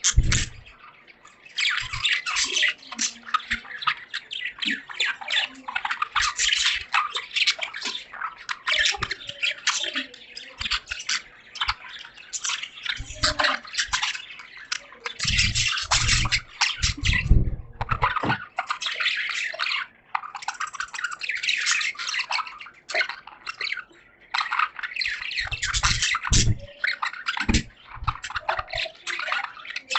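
A flock of caged budgerigars chattering and chirping continuously in fast, busy bursts, with a few dull low thumps in between.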